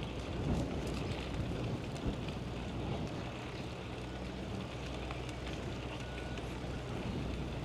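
Steady low rumble of outdoor vehicle traffic with a faint constant motor hum.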